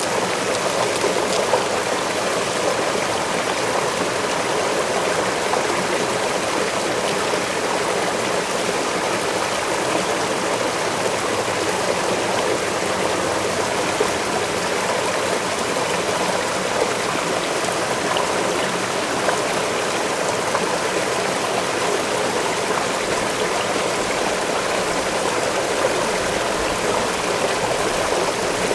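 Waterfall rushing steadily, a continuous even splashing of falling water.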